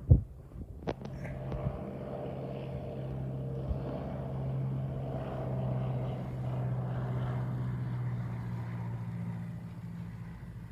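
A light propeller airplane's piston engine running steadily, growing louder over the first few seconds and easing off near the end. A sharp thump and a few clicks come right at the start.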